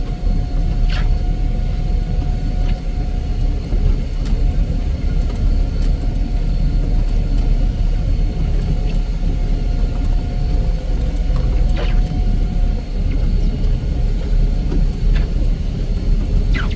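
Heavy snow-removal machine running steadily: a deep engine rumble under a steady whine, with a few short ticks about a second in, near twelve seconds and near the end.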